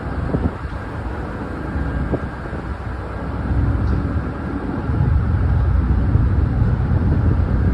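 Steady low engine rumble with a faint steady hum above it, growing louder about three and a half seconds in.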